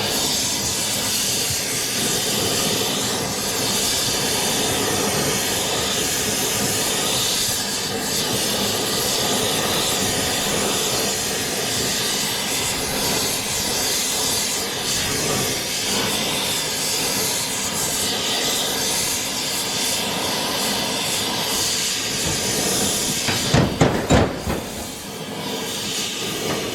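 Gas torch flame hissing steadily, with a few sharp knocks about a second before the end.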